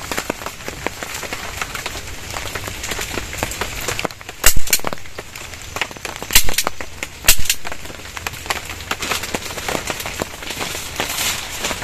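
Heavy rain pattering on a plastic sheet shelter, a dense crackle of drops. Three loud, sharp knocks come close together near the middle.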